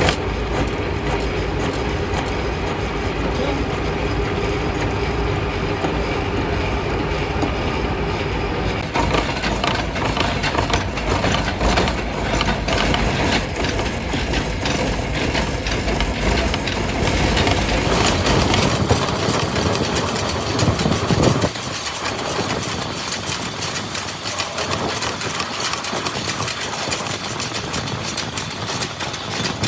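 Heavy factory machinery running, a dense clattering and rumbling noise that changes abruptly three times as different machines take over.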